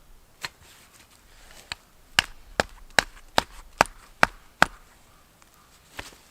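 Firewood being chopped: a run of seven sharp blows into wood, about two and a half a second, with a few lighter knocks before and one after.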